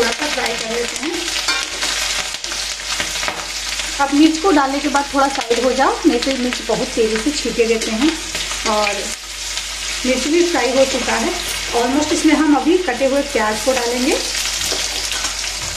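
Garlic and green chillies sizzling in hot mustard oil in an aluminium kadhai as a steel spoon stirs them. The spoon scrapes and squeaks against the metal in bursts of repeated strokes, loudest from about four to six seconds in and again from about ten to fourteen.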